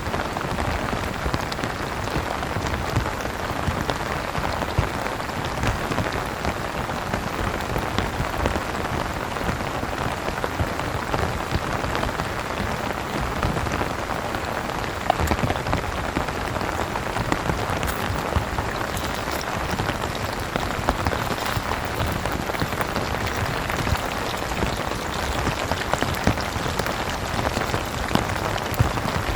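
Heavy rain pattering steadily on a tent awning, a dense patter of drops with an occasional louder drop striking close by.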